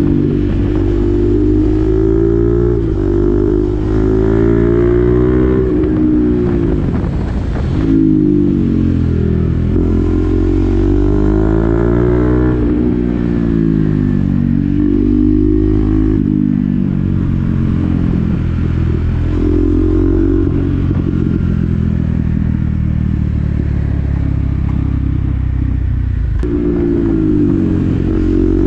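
KTM Duke 390's single-cylinder engine breathing through an SC-Project aftermarket exhaust with the dB-killer fitted, on the move. The engine pitch climbs and drops repeatedly as the bike accelerates, shifts and rolls off the throttle.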